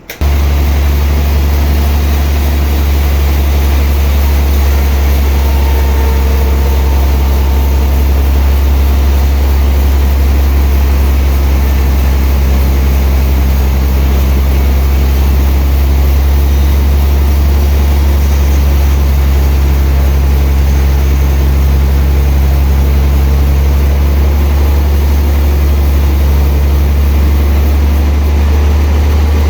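Sawmill machinery running steadily, a heavy, even low engine drone that cuts in abruptly and holds without change.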